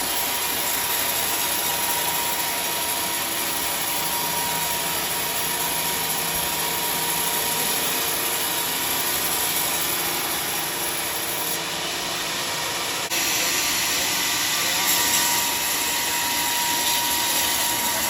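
Sawmill saw running through a large log: a loud, steady mechanical noise with a thin steady whine, turning abruptly brighter and harsher about thirteen seconds in.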